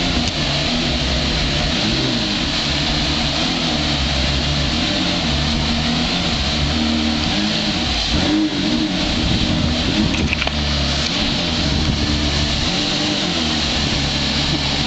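Porsche Carrera GT's V10 engine running loudly at fairly steady revs, with a brief rise and fall in pitch about eight seconds in.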